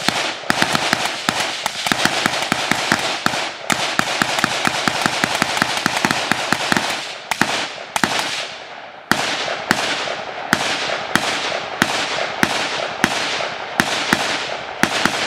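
Several AR-15 rifles firing. The shots come thick and overlapping for the first half, then thin out to about two a second, each with a ringing tail.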